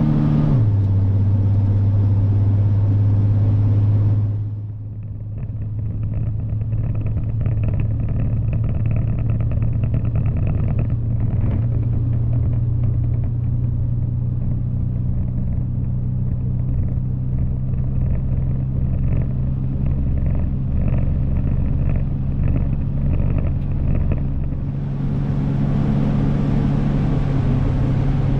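1963 Chevrolet Corvair's air-cooled flat-six engine running steadily on its rebuilt carburetors. The engine speed drops about half a second in and picks up again near the end.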